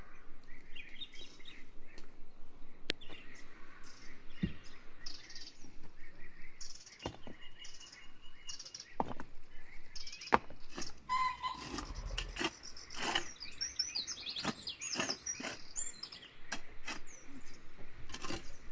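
Small birds chirping and calling, over a quick run of sharp clicking taps.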